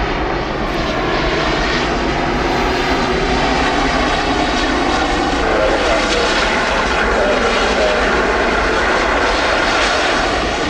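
Aircraft engines running loud and steady, an even rush with a faint steady whine.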